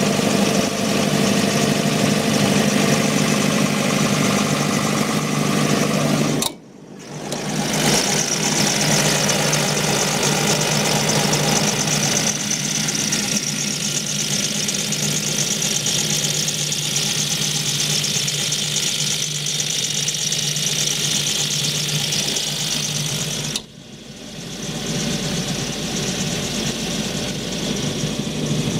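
Four-cylinder turbo-diesel (John Deere 4045HF) of a 60 kVA generator set running at a steady speed. The sound drops out abruptly twice, about seven seconds in and about twenty-four seconds in, each time coming back over a second or so.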